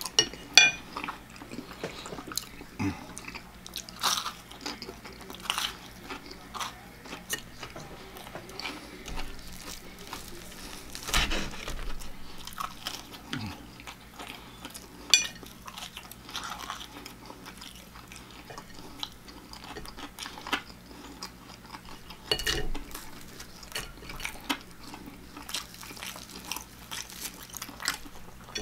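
A person biting into and chewing crispy deep-fried food up close, with irregular crunches, a few of them sharp and loud.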